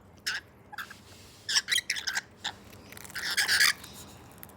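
Parrots giving harsh squawking calls in a string of short bursts, the loudest and longest about three and a half seconds in.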